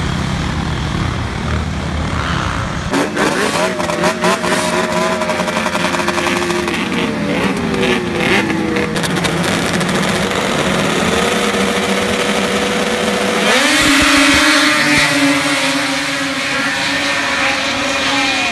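Two-stroke race snowmobile engines running at high revs, the pitch sliding down and back up several times, then rising to a louder steady note about two-thirds of the way through.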